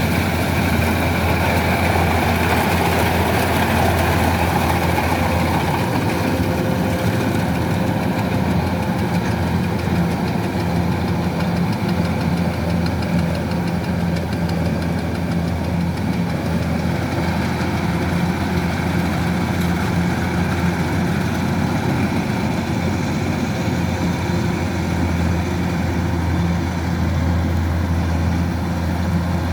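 Kubota DC-105X combine harvester's diesel engine running steadily, with a constant low hum and an even, unchanging pitch.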